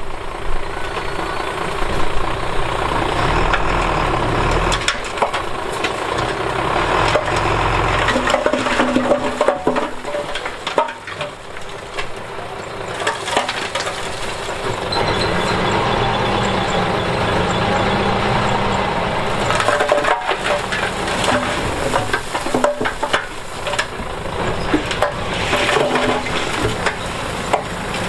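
Heavy diesel earthmoving machinery, a bulldozer with dump trucks, working under load with engine noise that rises and falls, and frequent clanks and knocks of metal, soil and rock.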